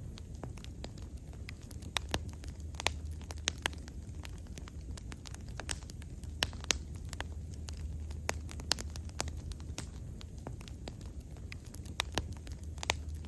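Wood fire crackling, with irregular sharp pops and snaps scattered throughout over a steady low hum.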